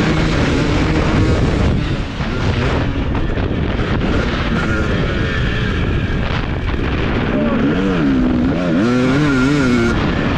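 Husqvarna TC250 motocross bike's engine running under load on the track, its revs rising and falling. For the last few seconds the pitch swings up and down quickly several times as the throttle is opened and shut.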